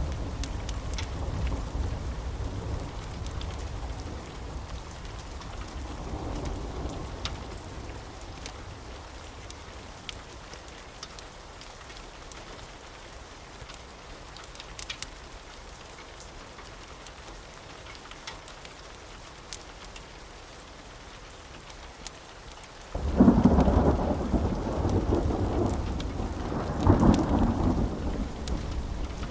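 Steady rain with rolling thunder: a rumble dies away over the first several seconds, then a sudden loud thunderclap breaks about three-quarters of the way through and swells again a few seconds later. Scattered faint clicks run throughout.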